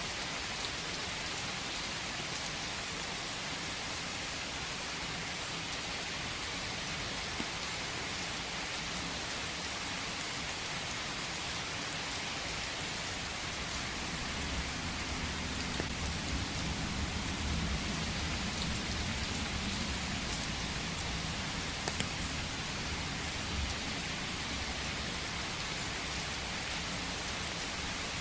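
Steady rain falling, an even hiss with scattered drop ticks. A low rumble swells in about halfway through and eases off near the end.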